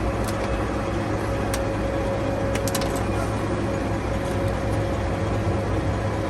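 Steady low hum of an idling truck engine, with a few light clicks about one and a half and three seconds in.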